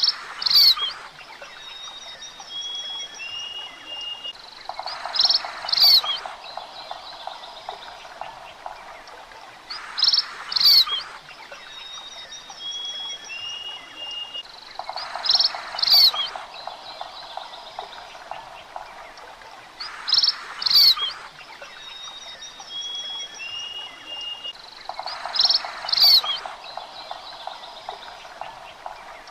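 Birds chirping: loud, sharp paired chirps about every five seconds, with thin, steady whistled notes in between. A lower buzzing trill lasting about two seconds joins every ten seconds, and the whole pattern repeats evenly like a looped nature soundscape.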